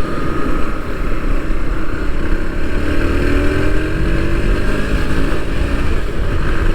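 Motorcycle engine pulling under way, its note slowly rising as it gathers speed, under a heavy rumble of wind on the microphone.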